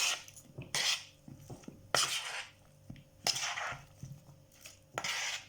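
A spoon stirring and scraping against a bowl as a wet fish marinade is mixed, in repeated strokes roughly once a second.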